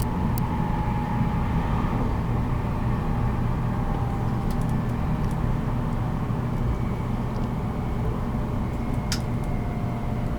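Running noise aboard a JR Kyushu 783 series electric limited-express motor car at speed: a steady low rumble of wheels on rail and drive gear, with faint tones drifting slowly in pitch. A few light clicks come through, the sharpest about nine seconds in.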